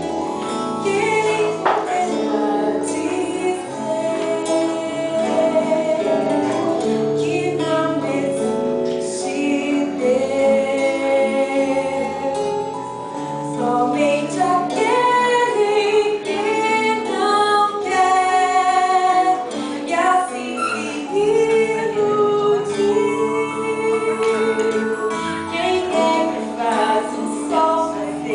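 A song with a woman singing over instrumental accompaniment.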